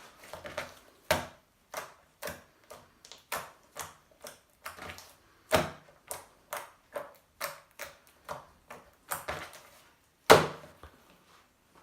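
Homemade slime crackling as it is worked, a series of sharp pops and clicks at an irregular pace of about two or three a second. The loudest pop comes near the end.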